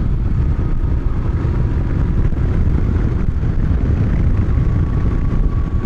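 Moto Guzzi V-twin motorcycle cruising at a steady road speed, its engine and the wind making one continuous low rumble.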